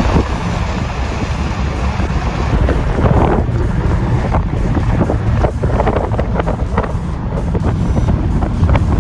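Loud, steady rumble of a helicopter in flight, with wind buffeting the microphone in irregular gusts.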